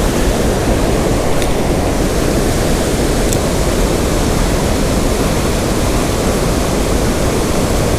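Steady rush of fast river water pouring through rapids in a strong current, with two faint ticks in the first few seconds.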